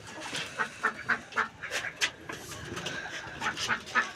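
Backyard poultry calling: a string of short, repeated calls, several a second, from the keeper's domestic birds.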